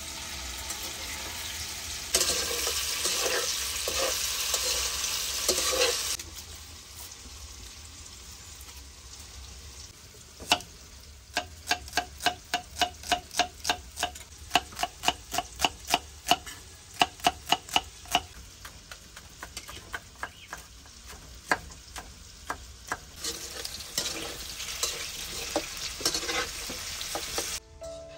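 Tofu cubes sizzling in hot oil in a wok, with a metal spatula stirring and scraping them. After that, a kitchen knife chops a red onion on a wooden chopping board, in a quick run of even knocks about three to four a second.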